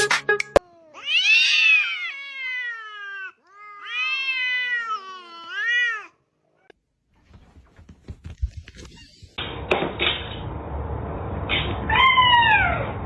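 Cat meowing: two long, drawn-out meows in the first half. After a pause and a few knocks, a shorter meow falling in pitch comes near the end over a noisy background.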